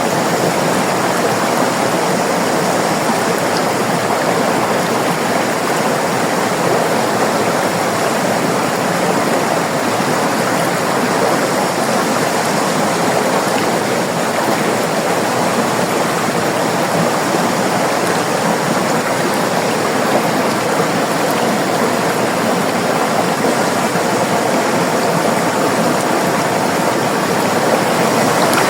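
River water flowing and rushing steadily, a dense even wash of water noise.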